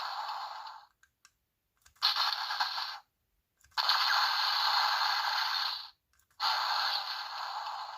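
Explosion sound effects from the DX Toucon Boost Ghost Eyecon toy's small speaker. They come as bursts of harsh noise with no low end, each one to two seconds long, starting abruptly with short silences between. One burst fades out about a second in, and three more follow.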